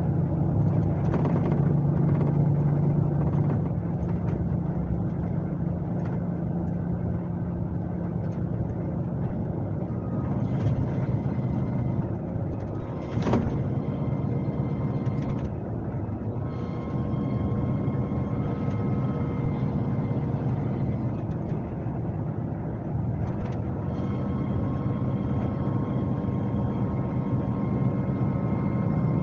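Scania K370C coach's diesel engine running under way, heard on board as a steady low drone with road noise and a faint whine. A single sharp click comes about 13 seconds in.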